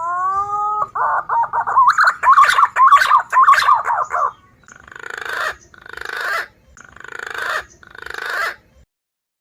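Recorded punai (green pigeon) calls played as a bird lure. A whistled note rises in pitch, then comes a warbling whistled phrase, then four shorter, buzzier calls about a second apart, each swelling louder, stopping shortly before the end.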